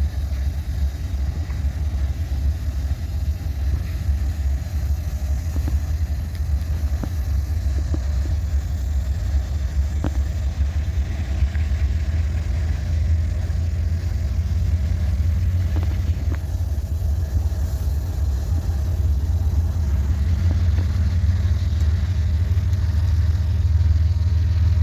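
Low, steady engine rumble that grows a little louder near the end.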